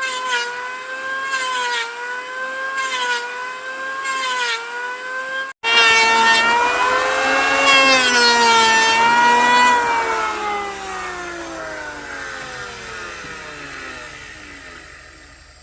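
An electric woodworking power tool running with a whine, its pitch dipping about every second and a half as it takes load. About halfway there is a sudden break; the tool then runs again and winds down, its pitch falling slowly as it coasts to a stop.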